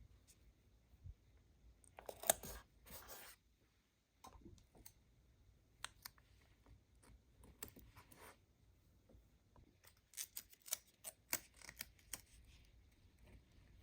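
Toy packaging being handled and opened: scattered light clicks and short snipping or tearing noises. The loudest is a sharp burst about two seconds in, and a quick run of clicks comes near the end.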